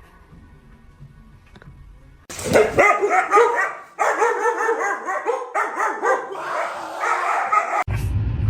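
A dog barking in a fast, unbroken run of short, high-pitched yaps for about five seconds, starting about two seconds in. Near the end it cuts off abruptly to a low, steady rumble.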